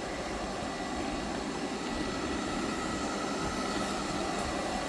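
Roomba robot vacuum running: the steady whir of its motor and brushes with a faint thin high whine, picked up by a phone mounted on top of it.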